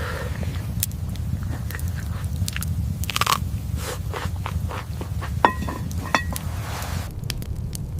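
Crunching and scattered clicks over a steady low rumble, with two short ringing clinks about five and a half and six seconds in.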